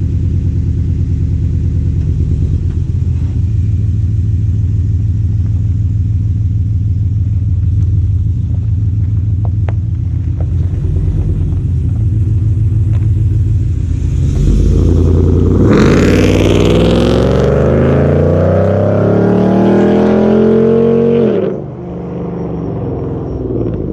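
Exhaust of a Ram 1500's Hemi V8 through JBA long-tube headers and Carven Competitor mufflers: a steady low rumble, then about two-thirds of the way in it opens up under hard throttle. The pitch climbs for about five seconds, then drops off suddenly into a quieter rumble near the end.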